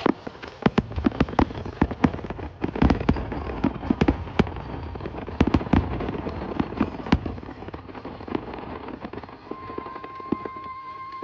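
Fireworks going off in quick, irregular succession: many sharp bangs and crackles, thinning out after about eight seconds. A steady high tone comes in near the end.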